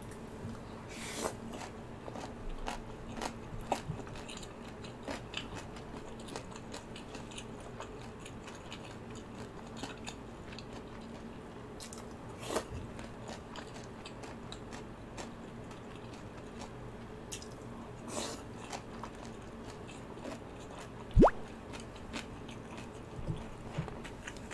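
Close-up chewing and biting of kimbap rolls and spicy ramyun noodles: small wet mouth clicks and soft crunches scattered through. A single sharp knock about 21 seconds in is the loudest sound.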